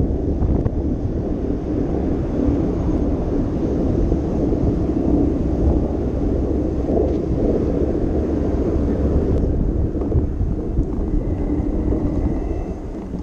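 Wind rumbling on the microphone of a camera riding along on a bicycle, mixed with rolling road noise: a steady low rumble.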